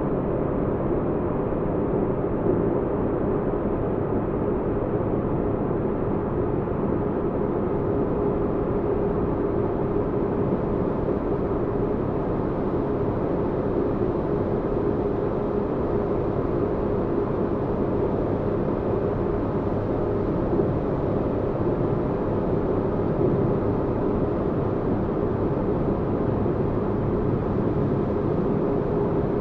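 Sci-fi spaceship-interior ambience: a steady deep rumble with a low hum running through it, unchanging throughout.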